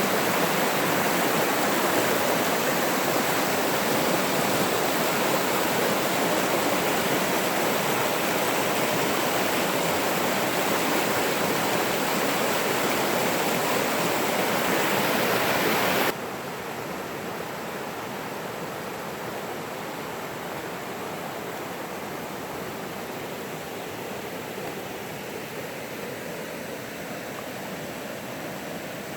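Running water of a stream, a steady rush. About halfway through it cuts suddenly to a quieter, duller rush.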